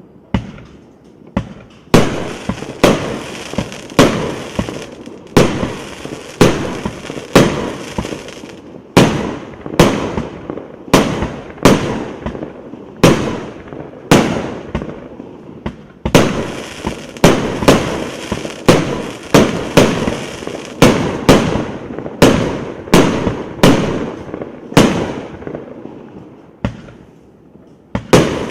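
A 178-shot, 1.2-inch consumer firework battery (cake) firing: sharp bangs about two a second, each trailing off, with a short lull near the start and another near the end.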